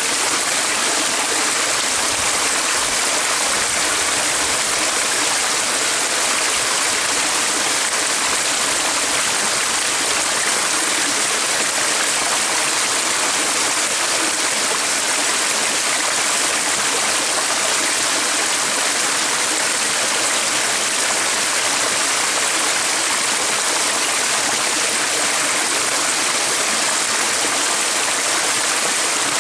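Stream water running steadily, an even, unbroken flowing sound.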